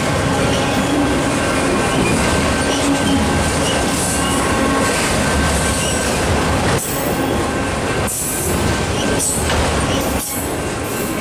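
Freight train of auto rack cars rolling past close by, with steady wheel and car noise and a thin steady wheel squeal. The noise dips briefly a few times in the second half.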